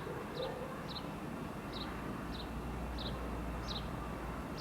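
A small bird chirping repeatedly: short, high, falling chirps about one or two a second, over a steady background hum.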